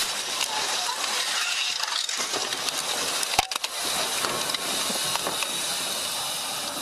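Aftermath of a truck crashing into emergency vehicles: a dense steady hiss with crunching and crackling, and a sharp knock about three and a half seconds in.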